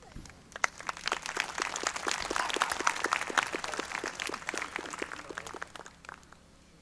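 Audience applauding, the clapping swelling over the first couple of seconds and dying away about six seconds in.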